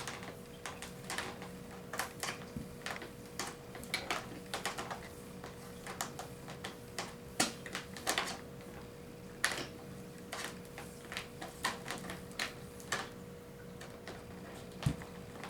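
Irregular light clicks and rattles of a Hoover FloorMate's power cord being wound around the cord hooks on its plastic body, one to three knocks a second.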